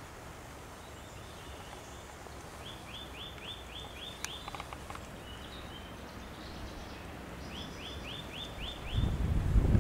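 A small bird singing a short phrase of five or six quick, falling chirps, three times over, against faint outdoor background noise. Near the end a louder low rumble swells up.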